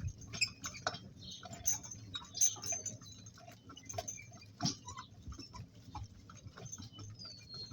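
Irregular soft knocks and clicks from a two-donkey work cart and its team, with a low rumble underneath and a few faint high bird chirps.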